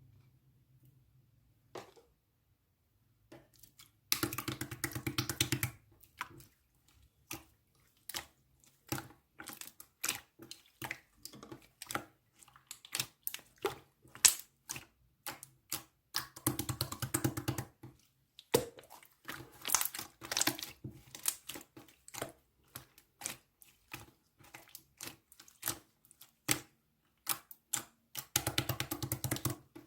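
Slime being played with by hand: quick sticky clicks and pops as it is pressed and pulled. There are three longer runs of dense crackling, about four, sixteen and twenty-eight seconds in, after a mostly quiet start.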